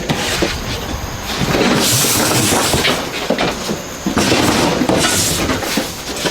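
Loud, continuous factory machine noise with rattling and metallic screeching, and two surges of high hiss, about two seconds in and about five seconds in.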